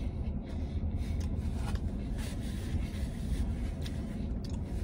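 Chewing a mouthful of wrap and handling its paper wrapper, with a few soft crackles and clicks, over a steady low rumble.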